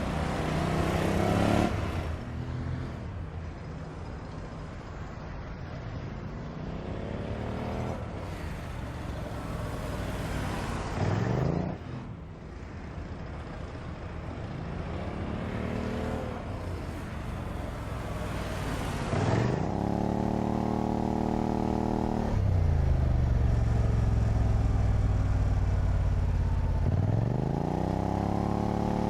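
Car engine revving and accelerating, its pitch climbing and falling again several times as it runs up through the revs and shifts. In the second half it holds a loud, steady high-rev run, drops briefly and climbs again near the end.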